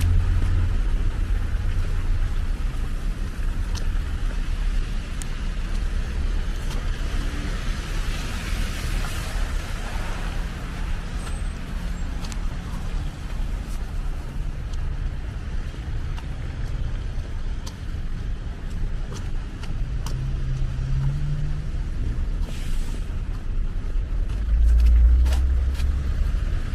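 Road traffic passing: car engines running with tyre noise, and a louder low rumble from a vehicle near the end.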